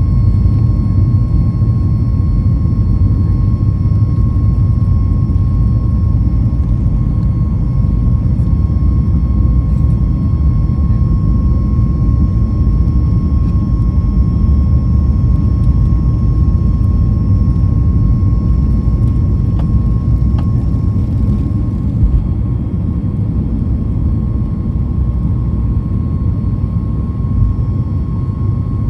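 Cabin noise of a Boeing 737 MAX 8-200 under takeoff power: its CFM LEAP-1B engines running at high thrust as a loud, steady low rumble with a steady whine above it.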